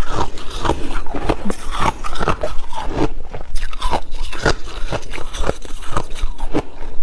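A person biting and chewing ice: a steady run of crisp, loud crunches, several a second.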